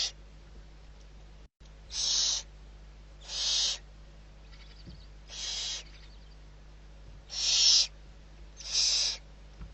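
Barn owl giving a series of harsh, hissing screeches, each about half a second long, five in a row at roughly one every second and a half, the middle one fainter.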